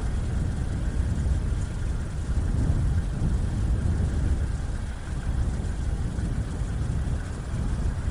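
Strong wind blowing in gusts: a deep, steady rush, heaviest in the low end, that swells and eases a little.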